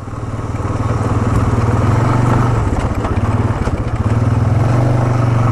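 Honda Foreman ATV's single-cylinder four-stroke engine running as the quad is ridden off. It rises in level over the first second and a half, then holds steady.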